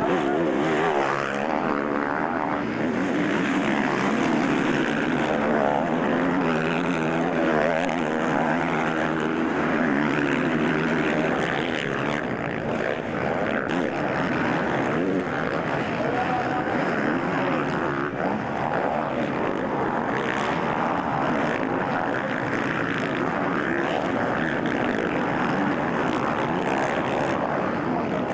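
Several motocross bike engines racing, revving up and down with rising and falling pitch as they accelerate and shift.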